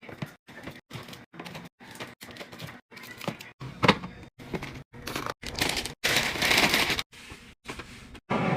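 Food containers, lids and packaging being handled and put into a fridge: clicks, knocks and rustling in short choppy cuts, with a louder rushing noise for about a second around six seconds in.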